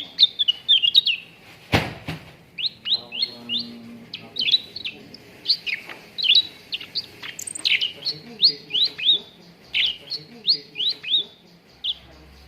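Cucak ranting songbird singing a fast, unbroken run of short, sharp chirps, many sweeping down or up in pitch, several a second. A single sharp click sounds about two seconds in.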